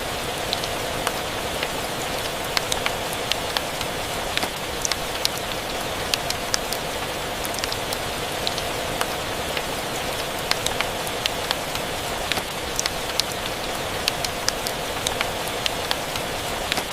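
Steady rain, with a fireplace crackling: frequent short, sharp pops and ticks scattered irregularly over the even hiss of the rain.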